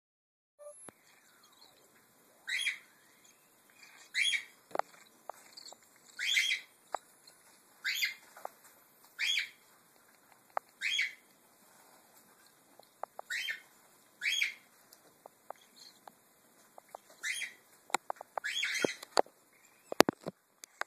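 Baby cockatiel chicks, about two weeks old, giving short begging calls, about ten of them a second or two apart, with small clicks and taps in between.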